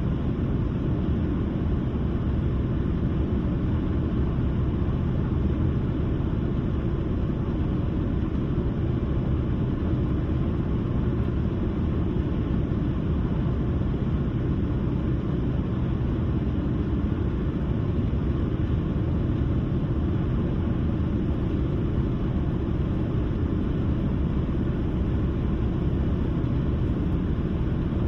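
Steady road noise from a moving car: an even rumble of tyres and engine, mostly low in pitch, with no changes.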